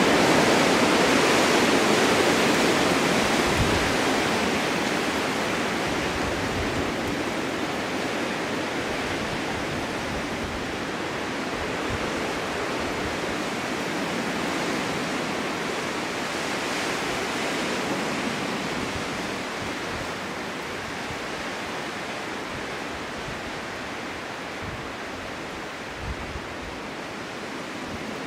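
Winter wind blowing steadily in a snowstorm as a continuous rushing noise. It is strongest in the first few seconds, then eases gradually, swelling again briefly a couple of times.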